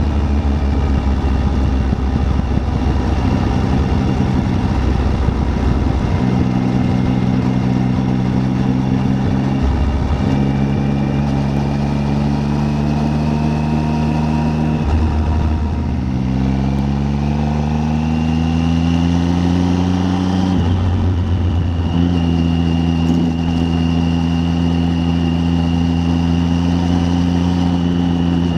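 Triumph Tiger 800's three-cylinder engine running on the road, with constant wind and road rumble. The engine note drops out briefly several times as gears change, and climbs steadily once as the bike accelerates.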